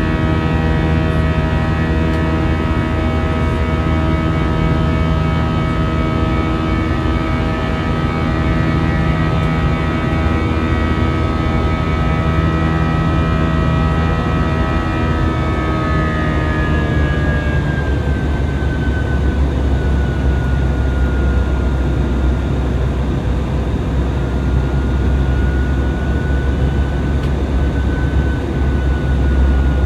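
Airbus airliner's jet engines heard from inside the cabin: a steady multi-tone whine over a loud rumble. About halfway through, the whine glides down in pitch as thrust is reduced, leaving mostly a deeper rumble with one thinner tone above it.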